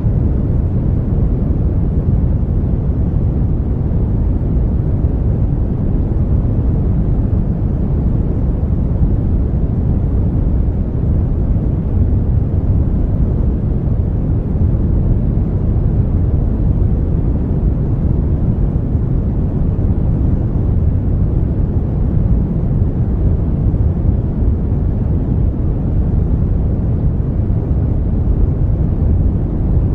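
Brown noise: a steady, even hiss weighted heavily toward the low end, like a deep rumble, with no change in level.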